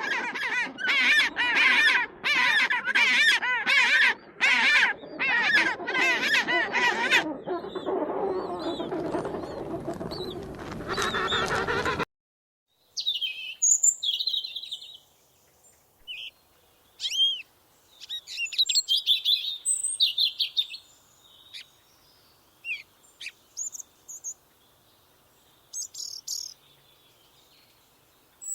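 A loud run of repeated, pitch-wavering animal calls, several a second, that cuts off abruptly about twelve seconds in. After a moment of silence comes a small bird's high, sparse chirps.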